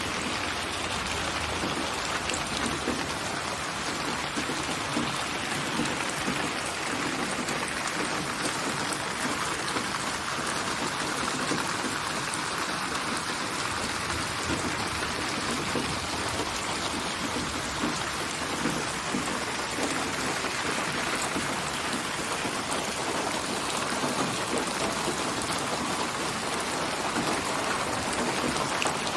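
Steady rain ambience, an even hiss of falling rain with many fine drop ticks, built by program from rain samples and panned around the head with 8D (HRTF) spatial processing.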